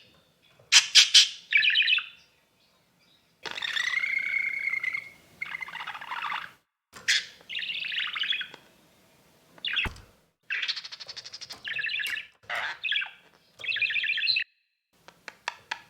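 Parrot calling: a string of short, raspy chirps and squawks separated by brief pauses, with one longer call about 4 seconds in.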